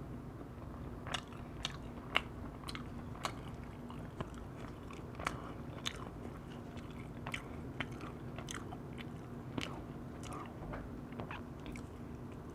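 Close-miked eating sounds of someone chewing firewood-roasted chicken: irregular sharp wet mouth clicks and smacks, a few every second.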